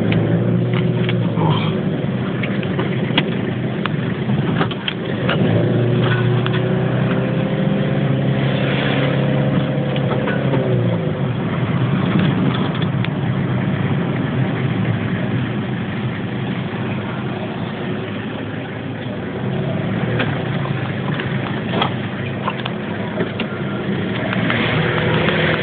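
A car driving, its engine note rising and falling with speed over steady road noise, with scattered short knocks and rattles.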